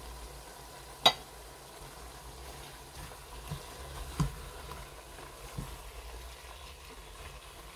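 Chicken pieces with onion, grated carrot and chopped bell pepper frying in oil in a pot, a faint steady sizzle. A spatula clacks sharply against the pot about a second in, with a few softer knocks of stirring later.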